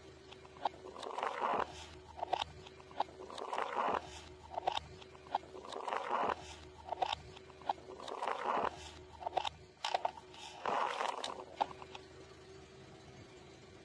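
Crunchy food being chewed close to the microphone: waves of crunching about every two and a half seconds, with sharp clicks between them.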